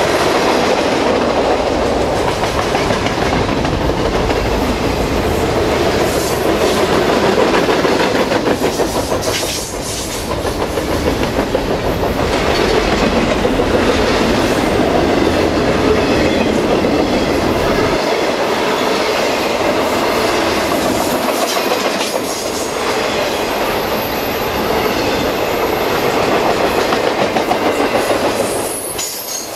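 Freight train's boxcars, tank cars and container cars rolling past at speed: a loud, steady noise of steel wheels on the rails, easing briefly about ten seconds in and again near the end.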